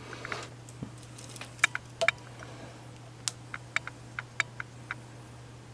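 A dozen or so light, scattered clicks and taps, like small objects being handled, over a faint steady low hum.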